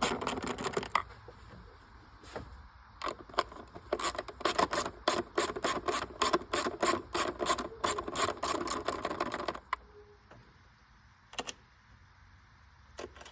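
Ratchet wrench clicking in quick runs as the 10 mm nuts holding the engine cover are backed off. It stops at the start for a couple of seconds, runs again for about seven seconds, then stops, with a couple of single clicks near the end.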